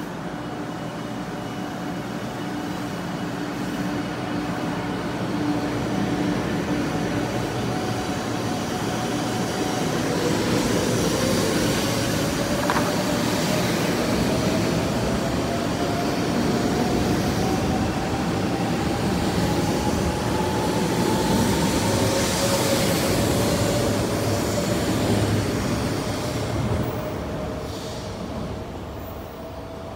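A 500 series Shinkansen pulling out of a station. A steady electrical hum gives way, about a third of the way in, to a whine from its traction equipment that climbs in pitch as it gathers speed, over a loud rolling rumble as the cars pass close by.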